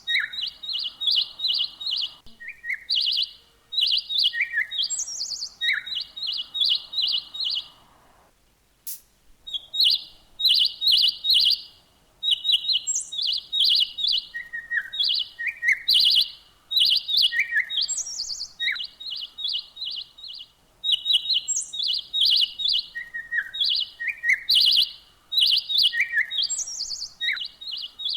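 Small birds chirping: rapid runs of short, high chirps mixed with occasional higher and lower slurred notes, breaking off briefly about eight seconds in.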